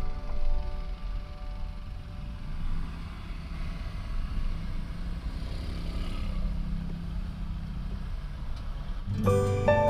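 Strong storm wind buffeting the microphone with heavy rain, a low rumbling noise that rises and falls. Music comes in about nine seconds in.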